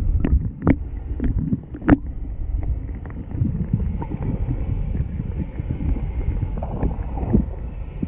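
Wind buffeting the microphone and water around a small boat, a steady low rumble, with several sharp knocks in the first two seconds.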